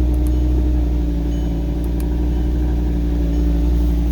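Audi R8's 5.2-litre V10 idling steadily just after a fully cold start, with the secondary air injection pump still running as part of the cold-start warm-up.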